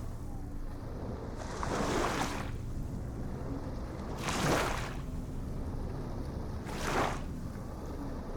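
Ocean waves washing in, three swells of surf about two and a half seconds apart over a steady low rumble.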